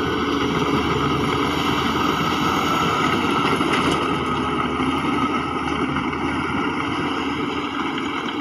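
Heavy diesel earthmoving machinery running steadily, the engine note holding without sharp revs or impacts.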